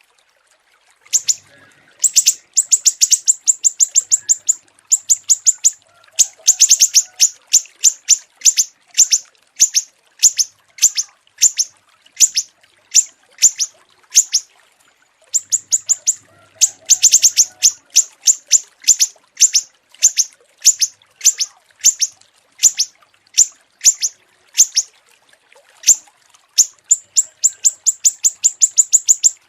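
Small songbird chirping: short, sharp, high-pitched chirps repeated in fast runs of several a second, easing to about two a second in between, the sort of song played as masteran to train caged songbirds.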